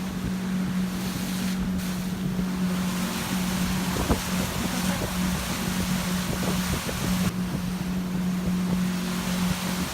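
Motorboat engine running with a steady low drone, mixed with wind buffeting the microphone and the rush of water.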